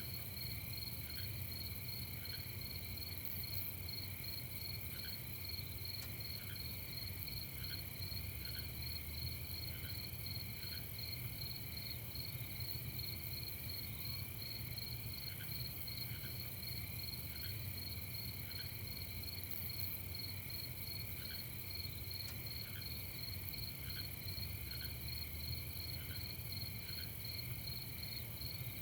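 Night insect chorus: crickets trilling steadily in several overlapping high pitches, with short, lower chirps scattered every second or so, over a steady low rumble.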